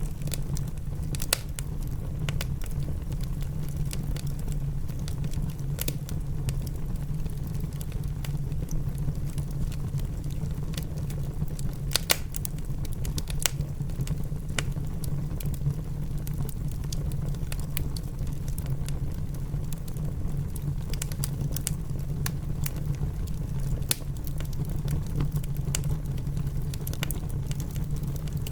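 Wood fire in a fireplace crackling, with irregular sharp pops over a steady low rumble, blended with rain.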